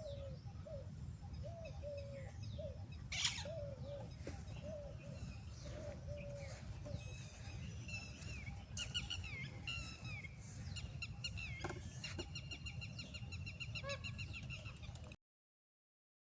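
Birds calling and chirping: a run of short, low, repeated calls, about two a second, through the first half, then higher chirps and trills taking over. A sharp click sounds about three seconds in, over a steady low rumble, and all sound cuts out about a second before the end.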